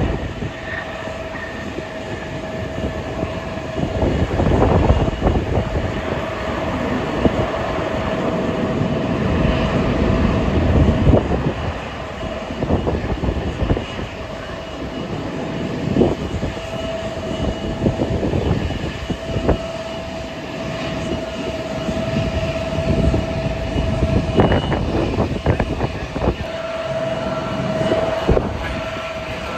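Jet aircraft engines running with a steady whine, under heavy wind buffeting the microphone in uneven low gusts.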